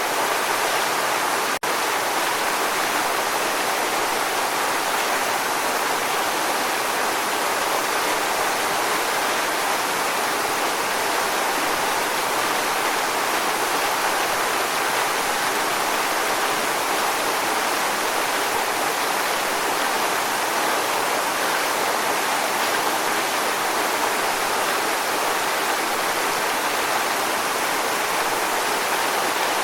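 Waterfall rushing in a steady, continuous roar of falling water, with one momentary dropout about a second and a half in.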